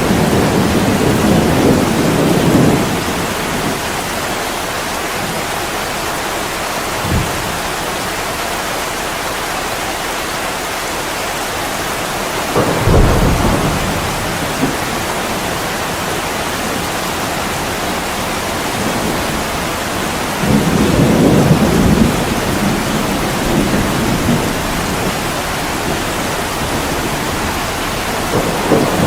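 Heavy rain falling steadily, with low rolls of thunder several times: at the start, in the middle and near the end.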